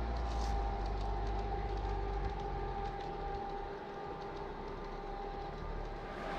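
Garden-scale model train running along its track, a steady rumble with a faint whine.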